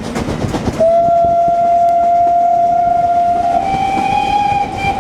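A passing train rumbling on the rails, then a steam locomotive's whistle blown once and held for about four seconds, its note stepping slightly higher near the end.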